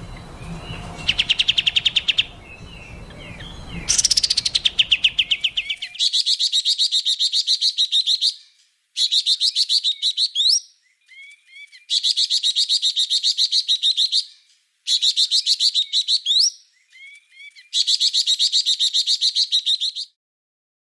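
Songbird singing a rapid, high trill in repeated bursts of about two and a half seconds, with short gaps holding a few swooping whistled notes. Low background noise runs under the first few seconds, then stops.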